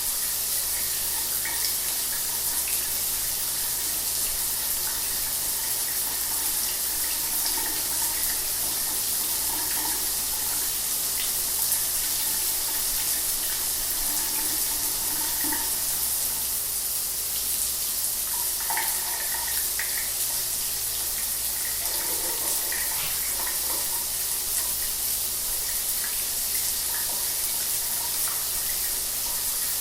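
Shower water running steadily, a constant high hiss of spray with small splashy changes in the mids.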